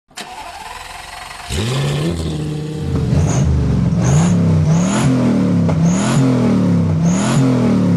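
Car engine revved over and over, its pitch climbing and falling about once a second, with a short high chirp near each peak; it comes in strongly about a second and a half in, after a quieter start.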